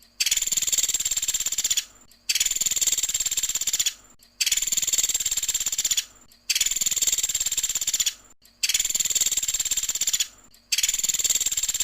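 Pelatuk sampit bird singing a rapid, high, rattling trill ('tembakan' phrase) of nearly two seconds, repeated about six times at an even pace with short pauses between.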